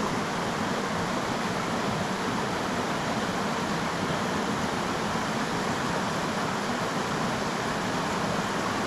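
Creek water rushing steadily over a riffle, an even hiss with no breaks.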